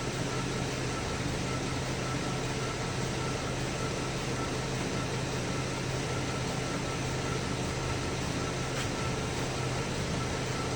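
2010 Chevy Traverse's V6 engine idling steadily, with a faint high whine over the hum; it is not misfiring at the moment, though it has stored misfire codes for cylinders 1, 3 and 5.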